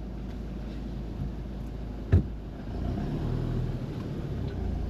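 4WD ute engine running at low revs, getting a little louder from about three seconds in. A single sharp knock about two seconds in.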